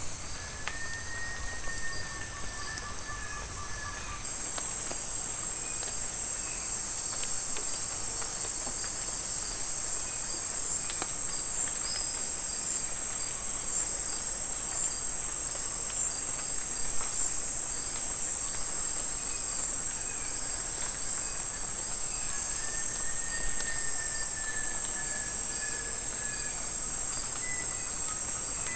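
Steady, high-pitched chorus of rainforest insects running without a break. A long, faint whistled call sounds twice, near the start and again about three quarters of the way through.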